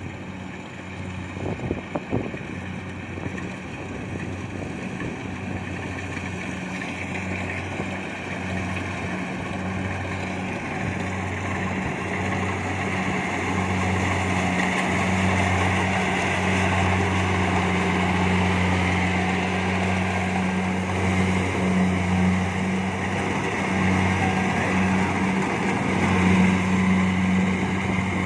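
Kubota DC70 Plus combine harvester's diesel engine running steadily under load while cutting rice, growing louder as the machine draws nearer. A few sharp knocks about two seconds in.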